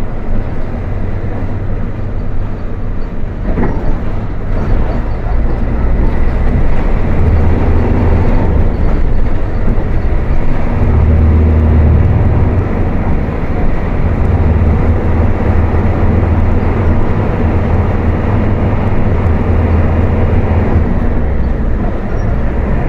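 Volkswagen 17.230 OD midibus diesel engine running at high revs, getting louder about six seconds in and holding there. A brief knock sounds about three and a half seconds in.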